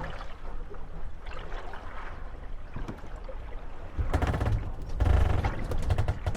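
Water lapping and slapping against moored wooden gondolas rocking in the waves, with clusters of knocks as the hulls bump together about four and five seconds in and a short creak about five seconds in.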